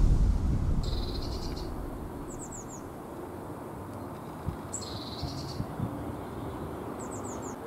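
Background music fading out over the first couple of seconds, then a small songbird calling twice: each time a short buzzy note followed by four quick, high, falling notes. Two soft low thumps come near the middle.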